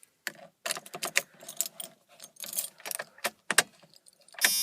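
Keys jangling and clicking on a key ring as the ignition key is worked in the truck's ignition. A steady electrical buzz starts just before the end.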